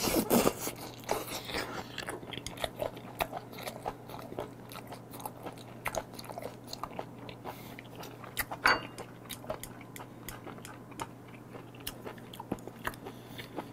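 Close-miked chewing of raw beef and chopped raw octopus (beef and octopus tangtangi): many short, wet mouth clicks, a little louder at the first bite.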